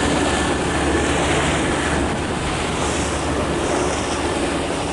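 Steady rush of wind across the microphone and water noise from a boat under way, over the low, even drone of its engine.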